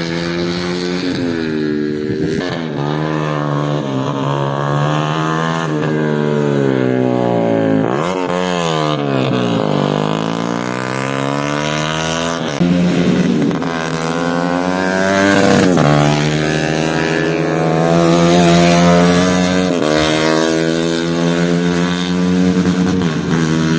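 Motocross motorcycle engines racing on an asphalt course, revving up and down continuously through the gears; about eight seconds in the pitch falls sharply and climbs again as a bike slows and accelerates.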